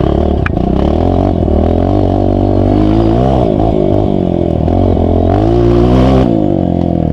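Dirt bike engine revving hard, its pitch rising and falling repeatedly with the throttle, then dropping off sharply about six seconds in.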